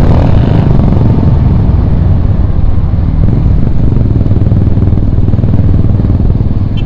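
Royal Enfield Bullet's single-cylinder engine running steadily while riding, loud and low.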